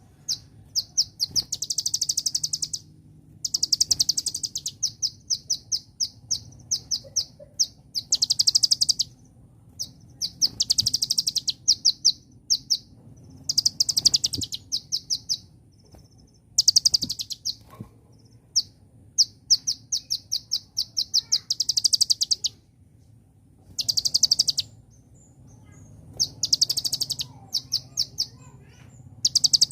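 A konin ('kolibri ninja') sunbird singing: rapid, high-pitched trills and chattering phrases, each a second or two long, repeating with short pauses.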